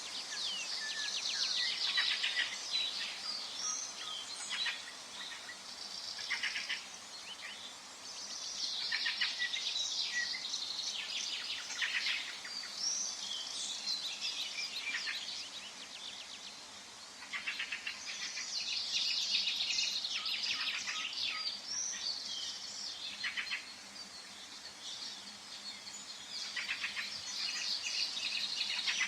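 Several songbirds chirping and trilling in a forest, their songs coming in bouts of a few seconds with short lulls between, over a faint steady background hiss.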